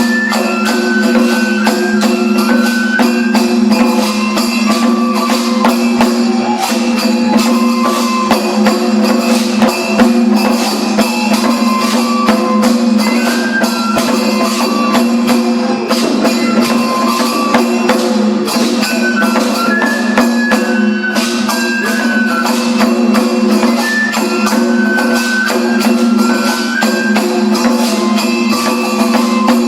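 Japanese daikagura festival music: a high bamboo flute melody over continuous taiko drumming and clashing small hand cymbals.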